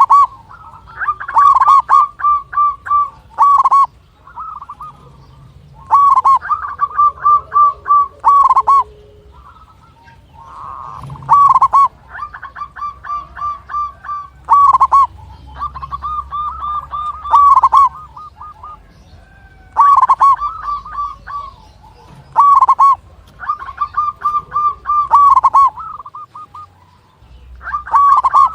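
Zebra dove (perkutut) cooing: repeated phrases of rapid, short staccato notes, each phrase a second or few long with brief pauses between.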